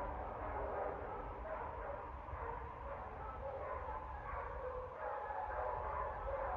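Dogs barking continuously, their calls overlapping without a break, over a low steady rumble.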